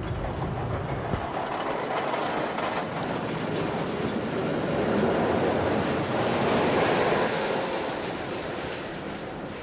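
Steel hyper coaster train of the Pepsi Max Big One running along its track, a rushing rumble that swells to its loudest about five to seven seconds in and then fades away.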